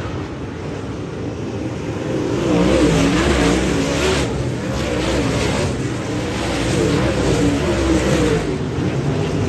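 Dirt-track modified race car engine running hard, its pitch rising and falling over and over as the throttle is worked, louder from about two seconds in.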